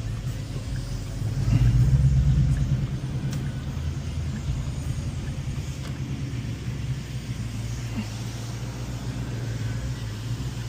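Ford Mustang's Coyote 5.0 V8 running while driving, a low exhaust rumble that swells briefly about two seconds in and then settles to a steady cruise.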